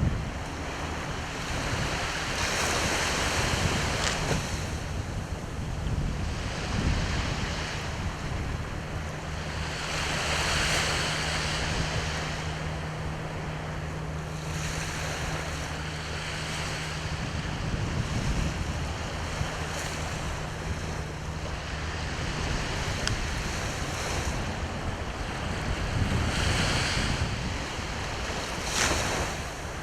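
Sea surf washing onto the shore, a steady rush that swells with each breaking wave every few seconds, with wind buffeting the microphone. A faint low steady hum runs under it through the middle.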